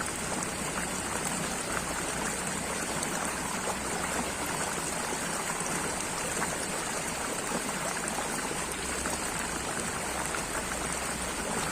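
Running water: a steady, even rush with many small droplet ticks through it.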